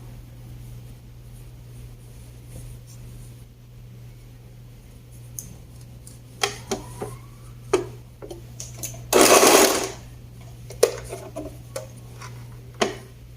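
Overlock (serger) sewing machine stitching in one short run of about a second partway through, among scattered clicks and knocks, over a steady low hum.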